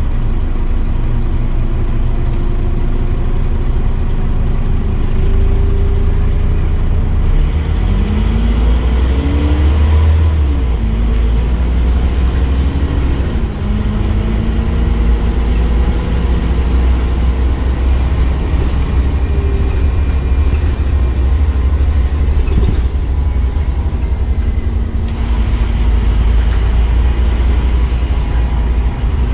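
Scania Omnicity bus's diesel engine running under way with a steady low rumble; its pitch climbs about eight seconds in, falls back about five seconds later, then climbs again as the bus accelerates.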